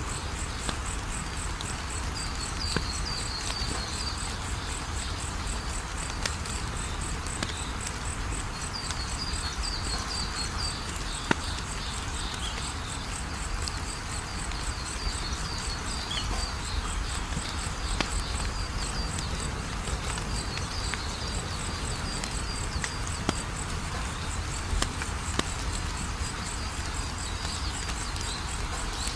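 Crickets chirping in a steady, evenly pulsing high-pitched trill, with a second insect chirping in short runs, over a crackling wood fire that gives scattered sharp pops.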